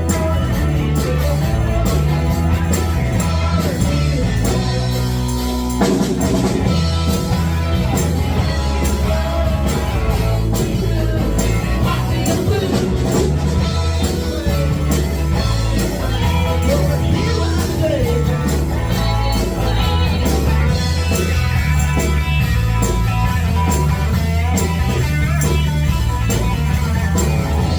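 Live rock band playing a song, with electric guitar over bass and drums.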